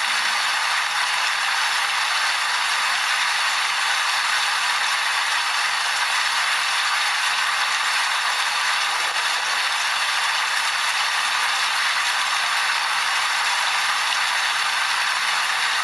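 Steady, dense rain, an even hiss of patter with no separate drops or thunder standing out.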